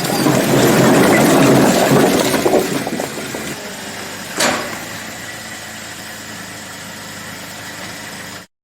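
Engine of the firewood delivery vehicle running, louder for the first two and a half seconds, then settling to a steady idle. A single sharp knock comes about four and a half seconds in.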